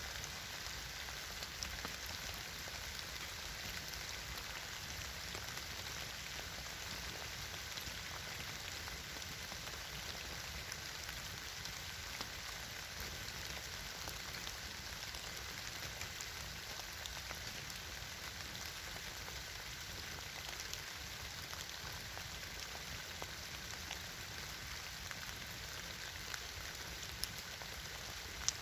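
Wood campfire burning: a steady hiss scattered with frequent small crackles and pops.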